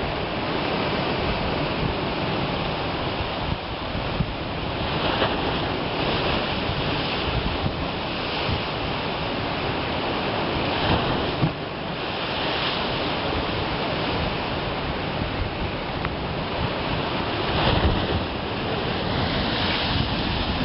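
Ocean surf pounding against an eroding shoreline edge, a steady wash of breaking waves with wind buffeting the microphone.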